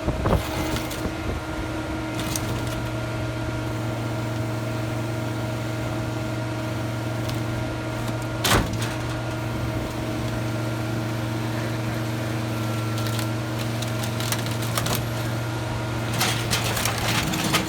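An engine running steadily, with scattered knocks and clunks over it and one sharp bang about eight and a half seconds in.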